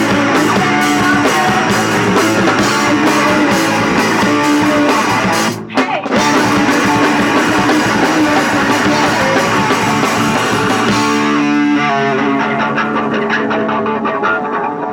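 Punk rock band playing live: electric guitar and drum kit, with a brief stop a little before halfway. From about two thirds of the way in the drums drop out and the guitar rings on.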